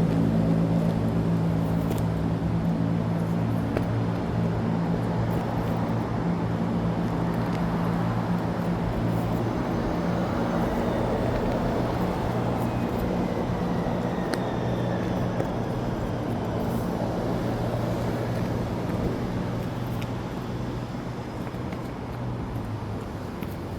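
Street traffic: a large vehicle's engine runs steadily close by over the hiss of passing cars, its hum fading away in the last few seconds.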